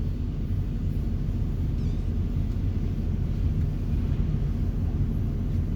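Excavator running steadily, a constant low drone with no change in pitch or level.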